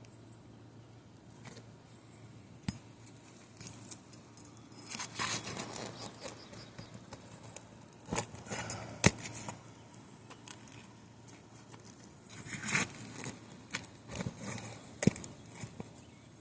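Asphalt roof shingles being handled: short bouts of scraping and crackling with sharp clicks, typical of shingle tabs being lifted and their adhesive seal strips pulling apart.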